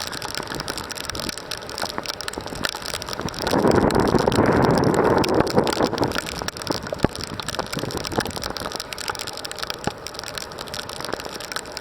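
Rain falling with wind, full of small drop ticks, with a louder rush of wind and rain lasting about two seconds, starting some four seconds in.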